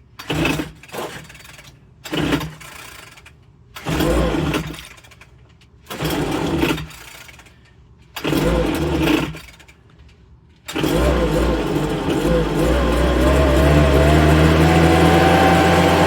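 Homelite backpack leaf blower's 30cc two-stroke engine being pull-started: about six pulls of the recoil starter, a few of them briefly firing, before it catches about eleven seconds in and keeps running, rising slightly in pitch. The owner suspects bad fuel or carburettor trouble behind its poor running.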